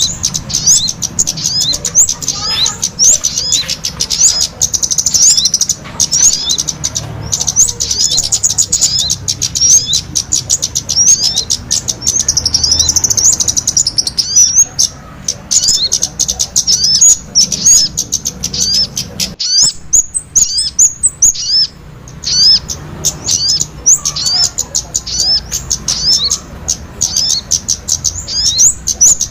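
A busy chorus of many small birds chirping: rapid, high-pitched, upswept notes packed closely together, as used on a lure recording to attract small birds. It breaks off briefly about twenty seconds in.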